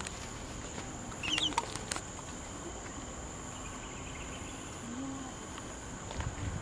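Steady high-pitched drone of insects, with a short run of quick bird notes about a second in.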